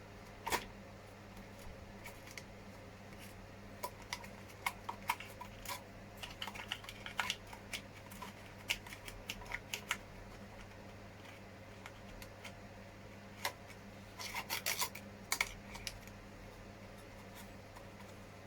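Hands working small hard plastic parts and wiring on an RC scale truck's injection-moulded body: light, scattered clicks and rubbing, with a quick run of clicks about three quarters of the way through.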